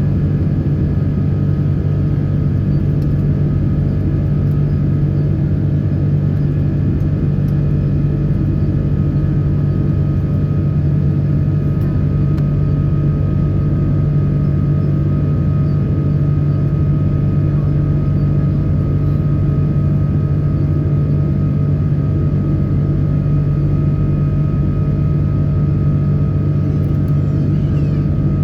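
Steady cabin noise of a Boeing 777-300 airliner in flight: an unbroken drone of engines and rushing air, with a strong low hum and a few faint steady whining tones above it.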